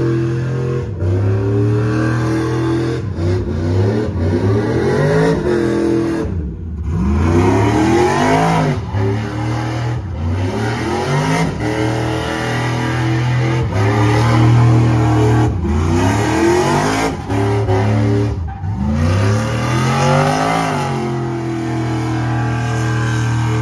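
A high-powered car engine revved hard over and over while the car does donuts, its pitch climbing and falling every couple of seconds over a steady low exhaust drone, with two brief drops off throttle.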